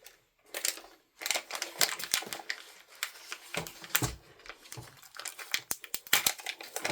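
Cardboard and plastic packaging crinkling and rustling as it is handled, with quick clicks and taps; two short lulls in the first second or so.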